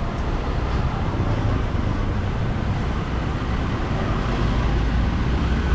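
Steady street traffic going by, a continuous hum of engines and tyres with no single event standing out.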